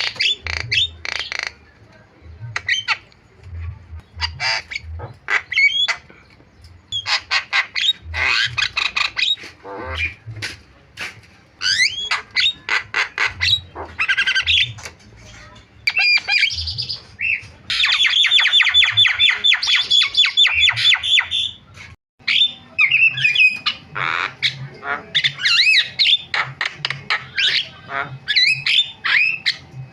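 Javan myna (jalak kebo) singing a busy, varied song of harsh squawks, whistled notes and quick chattering phrases. A long, fast rattling series comes about two-thirds of the way in.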